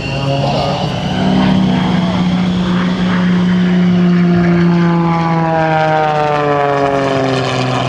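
Propeller-driven aerobatic airplanes flying past with their piston engines and propellers running. The drone holds steady for the first few seconds, then slides down in pitch from about five seconds in as the aircraft pass and move away.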